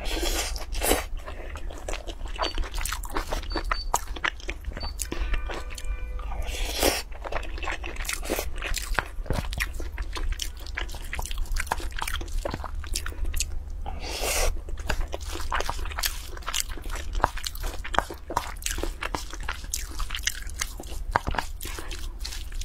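Close-miked eating: wet chewing and smacking of a mouthful of spicy mixed rice, as many quick clicks, with a wooden spoon scraping and stirring the rice in a metal pot. A low steady hum runs underneath.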